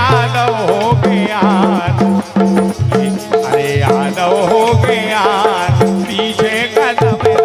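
Bundeli Rai folk music, instrumental: a melody line with a wavering, bending pitch over repeated drum beats and rattling percussion.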